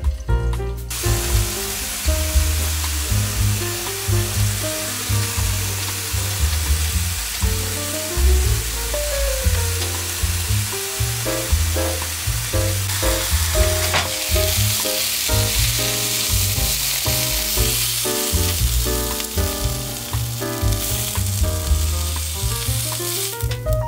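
Chicken sizzling as it cooks in hot oil and on an electric contact grill, a steady frying hiss that grows brighter about halfway through. Background music with a bass line plays underneath.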